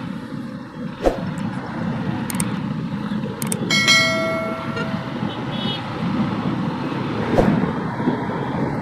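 Steady road and traffic noise heard from a moving motorcycle, with a vehicle horn sounding for about a second roughly four seconds in.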